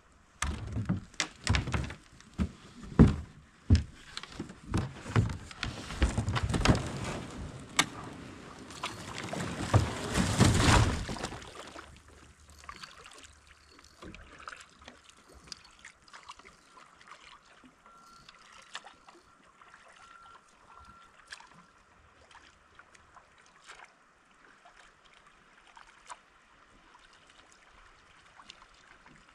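Kayak on a river: irregular knocks against the hull and loud splashing for the first dozen seconds, then quieter water with small drips and clicks.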